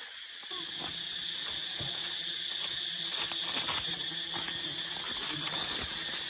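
Steady insect buzzing: a high, even drone with a fainter low hum beneath it, stepping up in level about half a second in.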